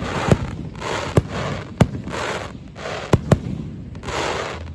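An aerial fireworks display, with shells bursting in a run of sharp bangs about a second apart and two close together near three seconds in. Swells of crackling hiss fill the gaps between the bangs.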